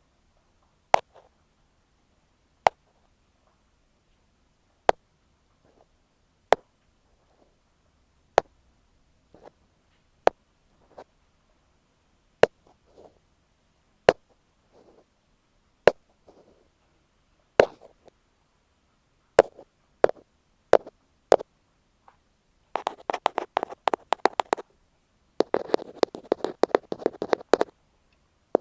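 An ear pick tapping on an earphone microphone in close ASMR style. It gives single sharp taps every second and a half to two seconds, then from about 23 seconds in changes to fast, dense tapping and scratching.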